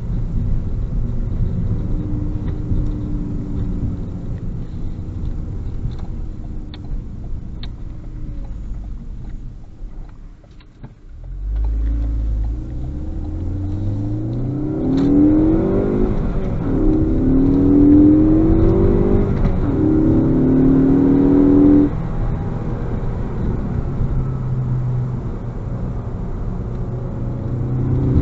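2018 Ford Focus ST's turbocharged 2.0-litre four-cylinder heard from inside the cabin. It cruises, then eases off almost to quiet about ten seconds in. It then accelerates hard, the engine note climbing through three pulls with a drop in pitch at each upshift, before settling into a steady cruise.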